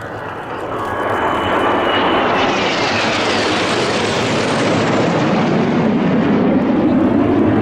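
Jet aircraft flying past: a loud rushing noise builds up in the first couple of seconds and stays, with a high whine sliding down in pitch around the middle as it goes by.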